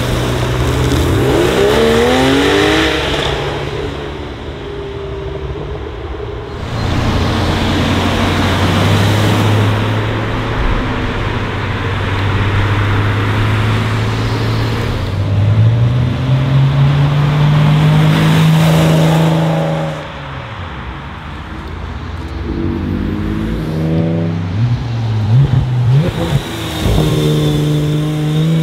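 Sports cars driving past one after another, engines accelerating through the gears with rising revs and shift breaks, and a steady engine drone through the middle. Near the end a Porsche 911 GT3 RS's naturally aspirated flat-six climbs sharply in revs as it accelerates out of a hairpin.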